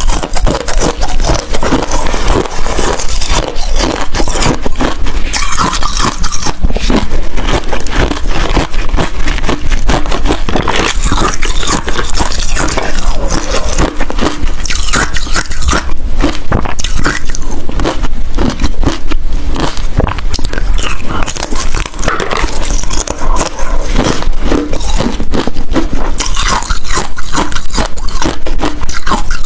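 Ice being bitten and chewed close to the microphone: a dense, continuous run of hard crunching and crackling.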